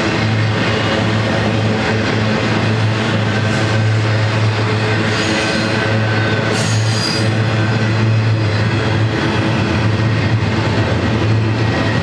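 Double-stack intermodal well cars rolling past steadily: a continuous rumble and clatter of steel wheels on rail, with brief high wheel squeals partway through.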